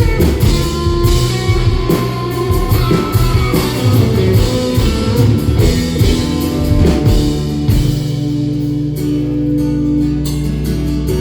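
Band playing an instrumental break in a country song: guitar leading with moving, bending notes over bass and drums, settling into a long held chord about eight seconds in.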